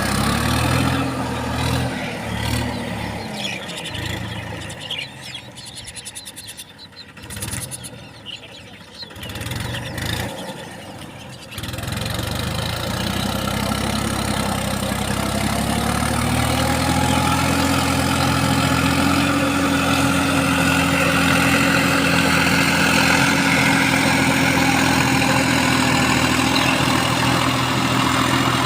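John Deere 5310 D tractor's three-cylinder diesel engine running. For the first eleven seconds or so it is uneven and broken up. It then steps up to a steady, louder run, its pitch climbing slowly before holding.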